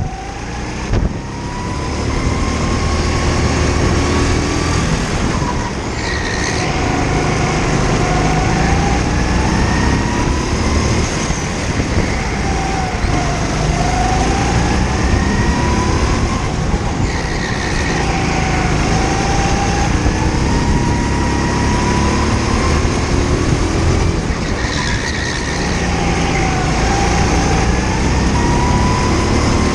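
Indoor rental kart's engine, heard from on board. It revs up in long rising pulls and drops back as the kart slows for corners, again and again.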